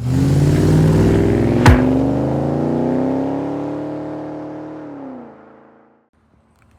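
A car engine under acceleration, its pitch rising slowly, with one sharp crack about a second and a half in. It then falls in pitch and fades away.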